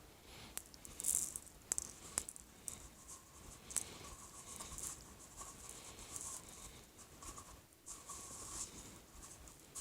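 Loose bird seed rustling and rattling on a sheet of paper as a paper tube coated in peanut butter is rolled through it, with scattered small clicks of seeds.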